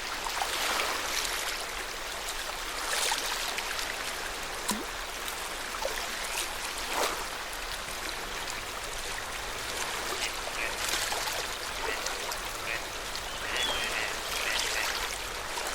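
Small waves lapping at the shore of Lake Yamanaka, a steady wash of water that swells every few seconds. A few faint short calls come in near the end.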